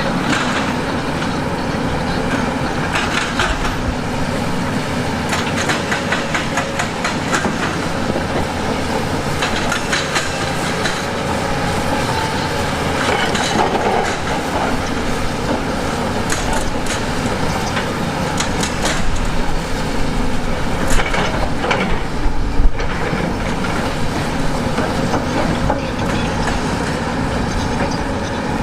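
Heavy earthmoving machinery running steadily, with repeated clanking and knocking of steel and rock throughout and a few louder knocks about three-quarters of the way through.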